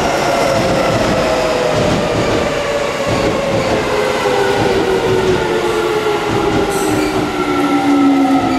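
Keio 9000 series electric train's inverter-driven traction motors whining with a steadily falling pitch as the train slows, over steady wheel and rail running noise. A short hiss comes near the end.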